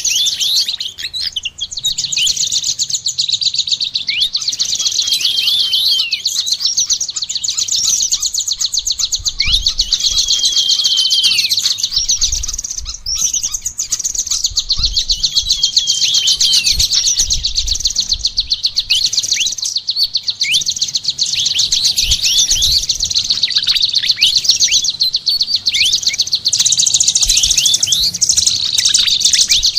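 Several caged songbirds singing together in a dense, continuous stream of fast high chirps and trills, broken by short sweeping whistles.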